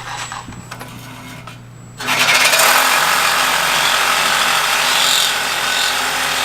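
A power tool starts cutting through a car's exhaust pipe about two seconds in, then runs steadily with a loud metal-cutting noise.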